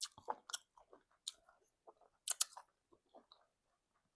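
Close-miked wet chewing and lip smacks of a mouthful of egusi soup and semolina, in short irregular clicks with a louder cluster of smacks a little past the middle.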